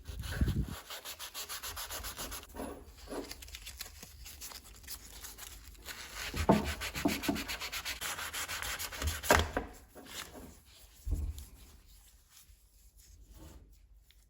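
Hand sanding of the brass gasket cutter: sandpaper rubbed back and forth over the metal in quick, even strokes of about four or five a second. The sanding stops about ten seconds in and only faint rubbing follows.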